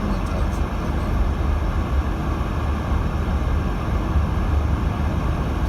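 Steady low rumble of road and tyre noise inside the cabin of a 2018 Subaru Crosstrek driving on a snowy road.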